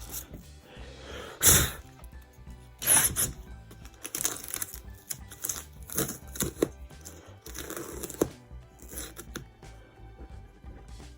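Irregular scrapes and knocks, the loudest about a second and a half in and at three seconds, as dirt is cleared from a sliding RV window's track, over quiet background music.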